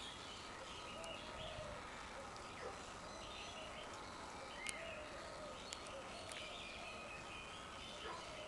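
Ambient background of many birds chirping faintly over a steady noise bed, with a few short sharp clicks, the loudest about halfway through.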